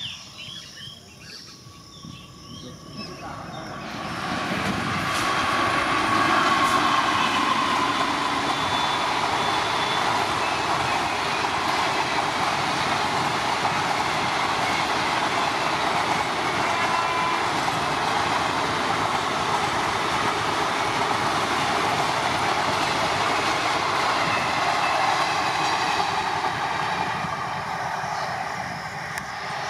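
Electric express train passing at speed behind a WAP-4 locomotive. The rush of wheels on rail swells about four seconds in as the locomotive arrives, with a high tone that falls in pitch. It then holds steady as the coaches run by and eases near the end.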